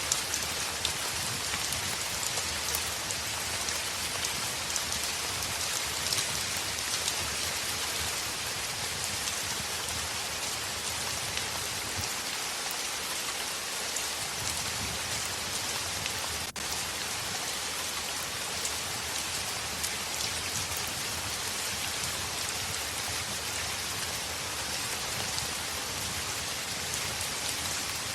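Steady heavy rain beating on window glass, an even hiss full of small sharp drop ticks, with a momentary dip in level about two-thirds of the way through.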